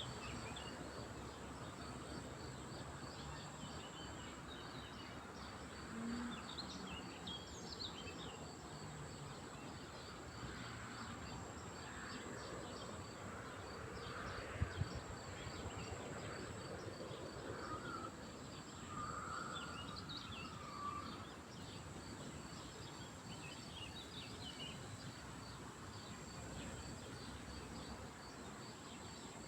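Lakeside ambience: a steady background hiss with small birds chirping now and then and a steady high insect-like drone. Near the middle come a couple of sharp low knocks, and a few seconds later a lower call.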